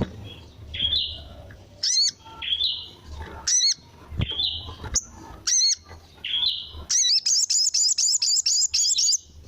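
A sogon (sogok ontong) bird calling: sharp, high chirps repeated about once a second, then a rapid-fire run of about ten notes near the end.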